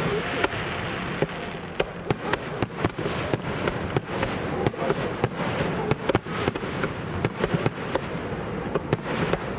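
Aerial fireworks shells bursting in a rapid barrage: sharp bangs and crackling, several a second, over a continuous rumble.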